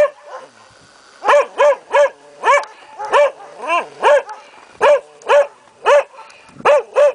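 Dog barking over and over in short, sharp barks, about two a second, starting about a second in.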